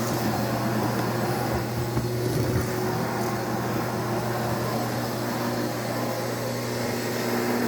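A machine's motor running steadily, with a constant low hum over a hiss of moving air.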